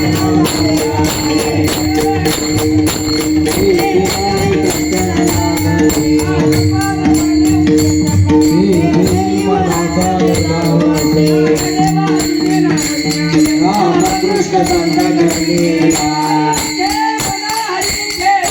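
Group Varkari devotional singing (bhajan) with small hand cymbals (taal) clashing in a quick, even rhythm over a steady held drone.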